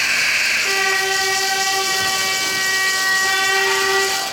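Ice arena horn sounding one steady, loud blast for about three and a half seconds, starting under a second in. A loud rushing noise comes before it.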